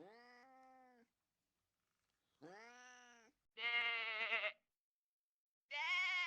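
Four animal calls, each about a second long: two softer, meow-like cries, then two louder cries with a quavering pitch.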